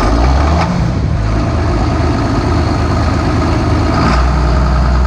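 John Deere 7800 tractor's diesel engine running steadily just after being started, having sat unused for a week.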